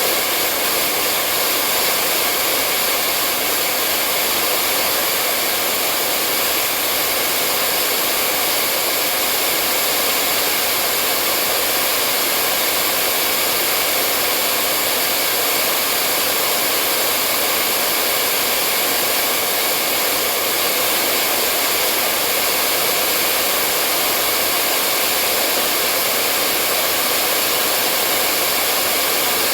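Hair dryer running steadily on one setting, a continuous even rushing hiss with a faint whine, played as white noise to lull a baby to sleep.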